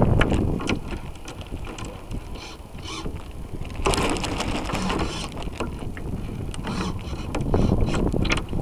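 Wind buffeting the onboard camera's microphone and water splashing and rushing along the hull of a radio-controlled model sailboat under way, with small clicks and knocks. The rush of water grows louder about four seconds in and again near the end.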